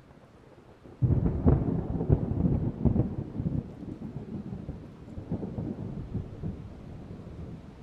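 Thunder: a sudden crack about a second in that rolls into a low, crackling rumble and slowly fades, with rain beneath it.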